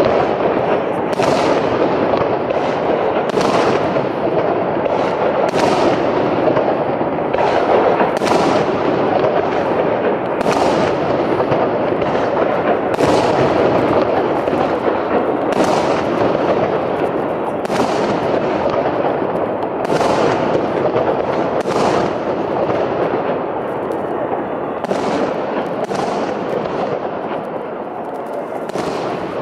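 Fireworks salute: a rapid series of bursts, roughly one a second, over a continuous dense din of further bangs, easing off a little near the end.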